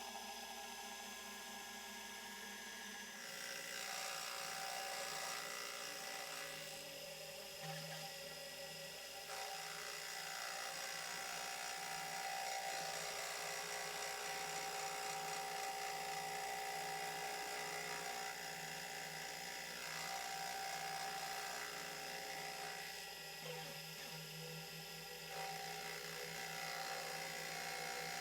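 Milling machine running with a fly cutter skimming the flange face of a Toyota Hilux exhaust manifold flat, taking off its bow and pitting: a steady machine hum with several steady whining tones. It grows louder and hissier about three seconds in.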